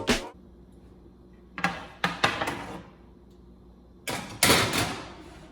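Oven door and metal baking sheet: a few clattering knocks around two seconds in as the tray goes in, then a louder knock with a short rattle about four seconds in as the oven door shuts.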